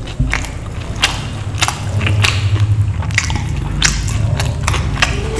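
Close-miked chewing of a full mouthful of food, with irregular wet smacks and clicks of lips and tongue.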